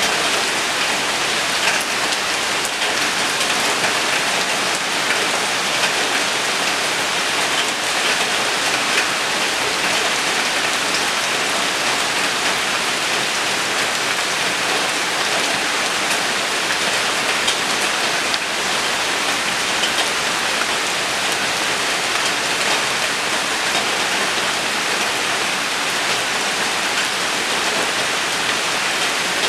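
Steady rain falling on surfaces, an even hiss with scattered drop patter.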